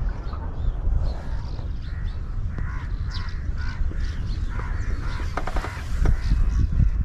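Birds calling in a series of harsh, repeated calls, thickest in the middle of the stretch, over a steady low rumble of wind or handling noise on the microphone.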